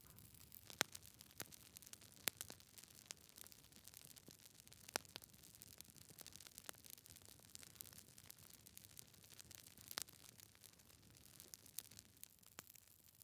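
Logs burning in a fireplace, crackling: irregular sharp pops and snaps over a faint steady hiss. A few pops stand out, about a second in, at two, at five and at ten seconds.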